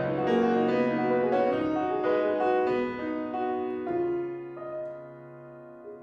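Solo piano playing chords; after about four seconds the playing softens and the last notes are left ringing and fading.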